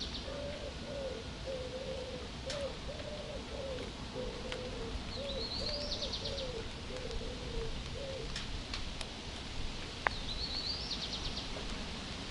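Birdsong over a steady background hiss. A songbird repeats a short high song, a rising sweep ending in a buzzy trill, twice, about five seconds apart. Low coos, typical of a pigeon or dove, run in a steady series for the first eight seconds or so. There is one sharp click about ten seconds in.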